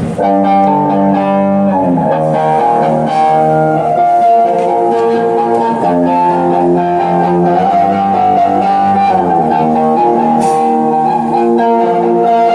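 Guitar playing held chords that change about every two seconds.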